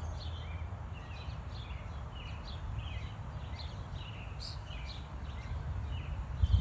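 Small songbirds chirping, many short chirps repeated throughout, over a steady low rumble. A low thump comes right at the end.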